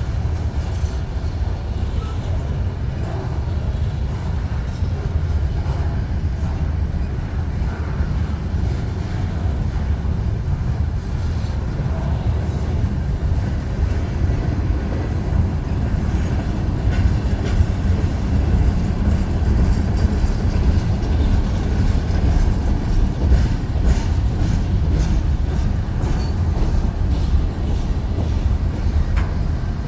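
Union Pacific freight train rolling slowly past: a steady low rumble of cars on the rails, with a few sharp clicks from the wheels in the second half.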